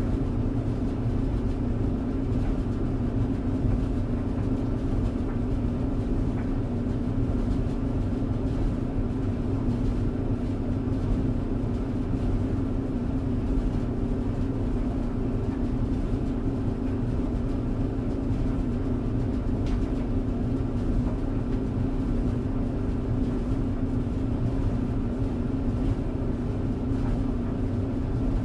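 Tumble clothes dryer running steadily: a constant hum with a low rumble beneath it, unchanging throughout.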